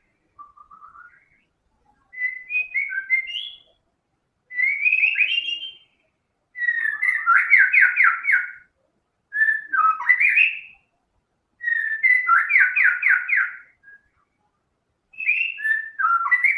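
White-rumped shama singing: a string of varied, clear whistled phrases with short pauses between them, several of them fast runs of repeated notes. The first phrase, just under half a second in, is faint.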